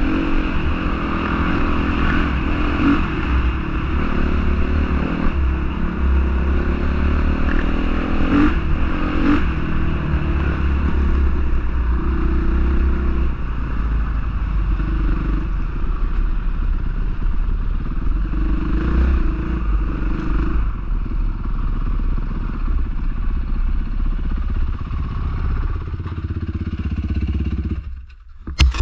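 Honda CRF450R motocross bike's single-cylinder four-stroke engine running under a rider, its pitch rising and falling with the throttle. The sound drops away sharply about a second before the end.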